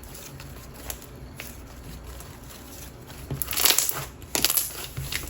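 Coated clear slime being stretched and pressed, giving faint scattered clicks, then a dense run of crispy bubble pops about three and a half seconds in, with a few more near the end.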